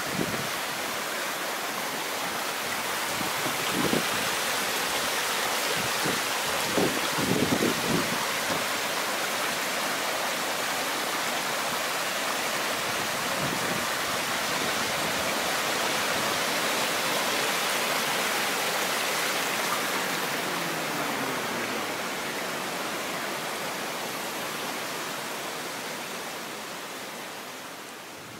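Shallow rocky brook (the Olchon Brook) running steadily over stones, a continuous rushing of water that eases off a little near the end. A few dull knocks come in the first eight seconds or so.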